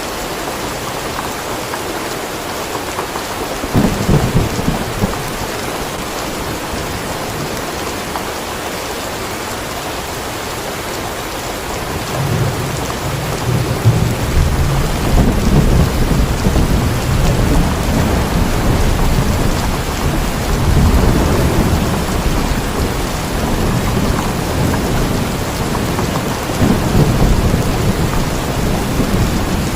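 Steady heavy rain falling, with a short low rumble of thunder about four seconds in. From about twelve seconds a long rolling thunder rumble sets in and swells several times to the end.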